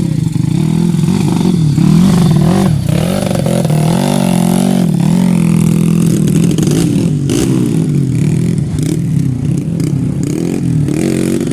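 Trail motorcycle engines revving hard, rising and falling in pitch again and again, as the bikes struggle up a slippery uphill without making it to the top.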